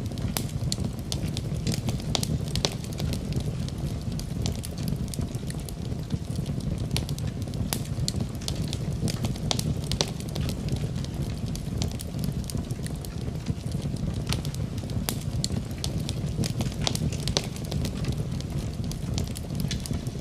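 Fire burning in a fireplace: a steady low rush of flame with frequent sharp, irregular crackles and pops.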